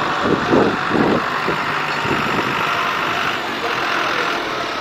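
Tractor engine running steadily, idling.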